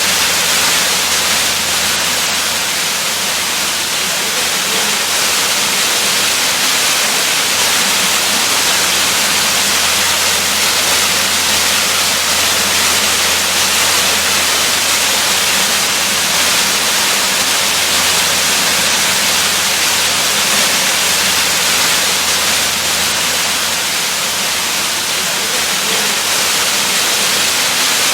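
A waterfall's steady, unbroken rush of falling water, an even hiss with most of its weight in the upper range.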